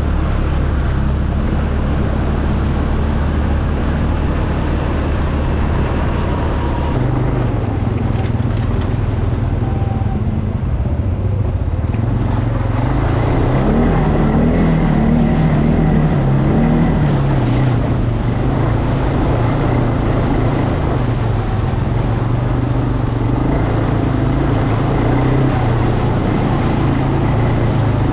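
ATV engine running under way. Its pitch steps up about a quarter of the way in, rises again near the middle and wavers for a few seconds, then holds steady.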